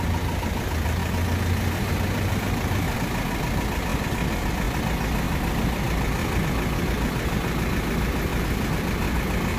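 Nissan Diesel delivery truck's diesel engine idling steadily, a low, even running sound with no revving.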